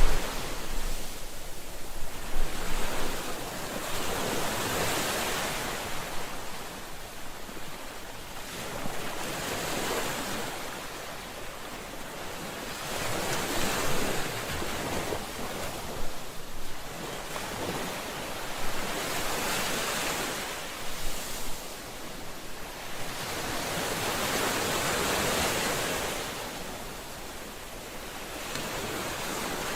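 Ocean waves breaking on a shore, a steady rushing surf that swells and recedes every few seconds, with some wind.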